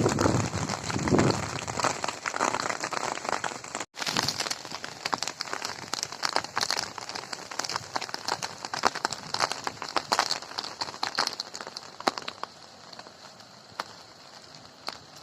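Rain falling, with many close individual drops ticking and splatting on surfaces over a steady hiss. It is heavier and fuller for the first few seconds, cuts out for an instant about four seconds in, then carries on lighter.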